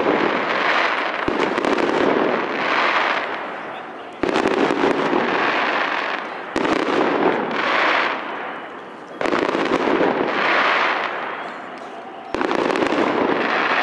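A fireworks salute: shells burst with a sharp bang about every two to three seconds, five times. After each bang comes a couple of seconds of dense noise that dies away.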